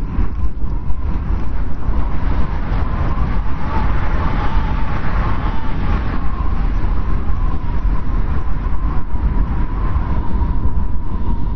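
Snowstorm wind blowing hard: a deep steady rumble with a thin, wavering whistle over it that swells a little midway.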